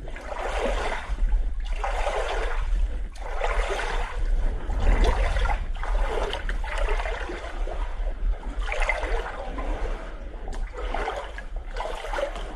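Cold floodwater sloshing and splashing in repeated surges, about one every second and a half, as a person moves through it.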